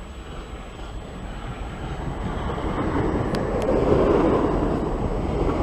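An electric passenger train approaching on the tracks, its rumble growing steadily louder and peaking about four seconds in. Two sharp clicks come just before the peak.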